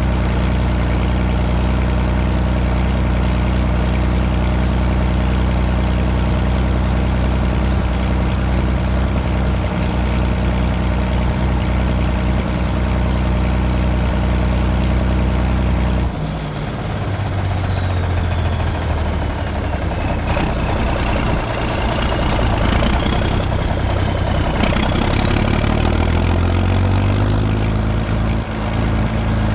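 Straight-piped John Deere 4630 turbocharged six-cylinder diesel running steadily. About halfway through the engine note shifts and a high turbo whistle falls away. Later the whistle climbs again as the engine speed picks up.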